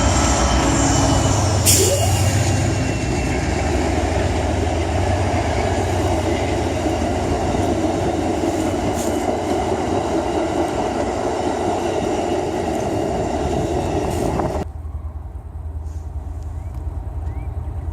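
A train running past, a loud steady rumble of wheels on rail with a sharp click about two seconds in. The noise drops away suddenly near the end, leaving a lower rumble.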